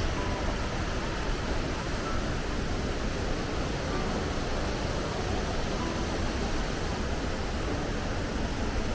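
Steady rushing of falling water at a waterfall.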